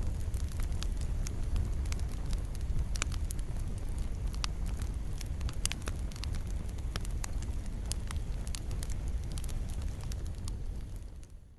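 Wood fire burning in a fireplace: a steady low sound of the flames with frequent sharp crackles and pops from the burning wood. It fades out in the last second.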